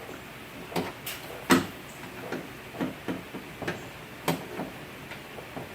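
Irregular knocks and clicks of tools and metal parts being handled inside a car door, about ten in all, the loudest about a second and a half in.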